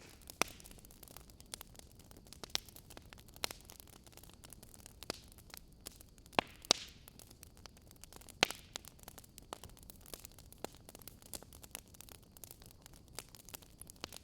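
Wood fire crackling: irregular sharp pops and snaps over a faint hiss, with the loudest pops about six and a half and eight and a half seconds in.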